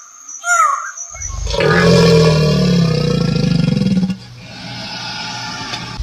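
Animal calls: a short falling chirp, then a long, low, loud call lasting about two and a half seconds, which drops to a quieter call near the end.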